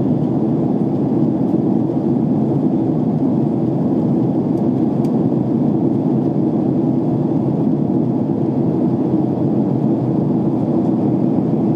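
Steady, deep rush of airliner cabin noise in flight, heard inside the cabin: engine and airflow noise with no change in level.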